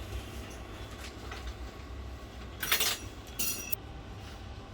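Small metal parts and tools being handled while a MacBook Air is reassembled: faint clicks, a short rustling scrape about two and a half seconds in, then a brief ringing metallic clink, over a steady low hum.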